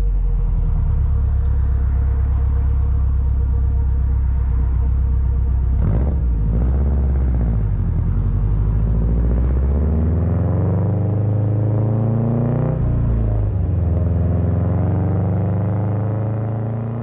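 2024 Subaru Impreza RS flat-four engine through a quad axle-back exhaust, running under varying throttle with the exhaust note rising and falling in pitch and a long climb about ten seconds in.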